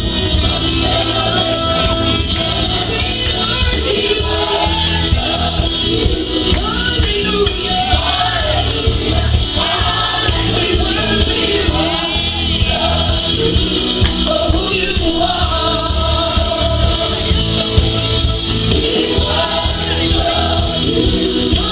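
Live gospel worship music in a church: singers with a band, led by voice with a steady bass underneath.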